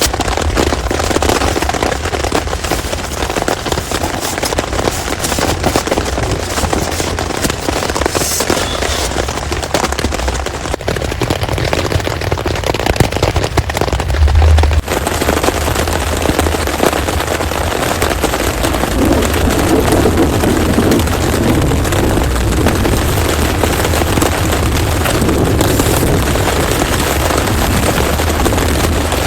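Heavy rain falling hard, with a dense crackle of close drop impacts over a low rumble. The sound changes abruptly about halfway through.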